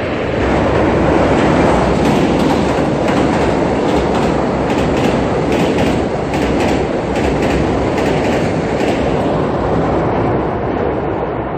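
Passenger train crossing a steel truss railway bridge: a loud, steady rumble from the bridge, with a run of even clickety-clack wheel beats over the rail joints through the middle few seconds, easing slightly near the end.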